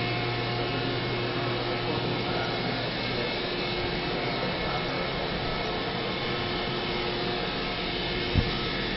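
Steady machine-like whirring noise with a faint low hum, and one brief thump about eight seconds in.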